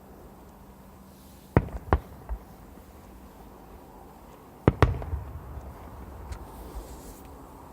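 Fireworks exploding overhead: a cluster of three sharp bangs about a second and a half in, then two close bangs near five seconds followed by a rolling rumble.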